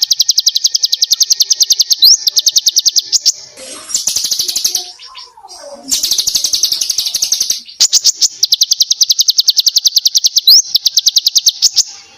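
Small songbird singing long, very rapid trills: runs of evenly repeated high notes lasting a few seconds each. A short break a few seconds in holds a softer, lower whistle that rises and falls.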